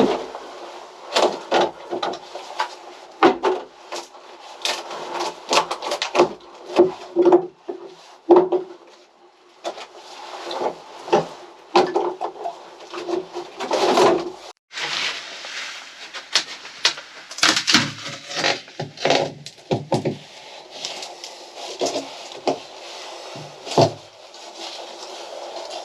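Wooden interior panels and fittings being pried loose and handled: irregular knocks, clatters and scrapes of wood.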